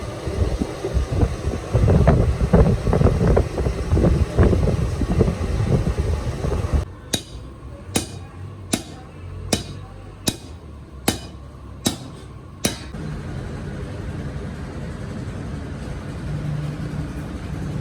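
Workshop machinery noise. A loud clattering din breaks off suddenly, and eight sharp metallic knocks follow at a steady pace of just under one a second, then a steady low hum.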